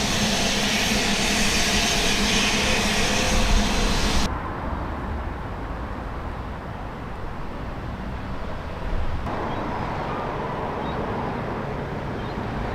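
Narrow-gauge train running, a steady mechanical rumble with hiss. It cuts sharply to quieter takes about four seconds in and again about nine seconds in.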